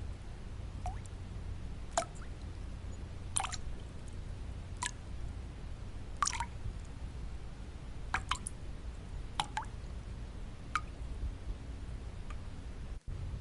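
Water drops falling one at a time, about a dozen short plinks at irregular intervals, over a steady low white-noise hiss. The sound cuts out for a split second near the end.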